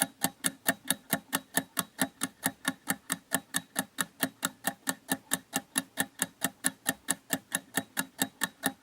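Countdown timer sound effect: a steady clock-like ticking, about four ticks a second.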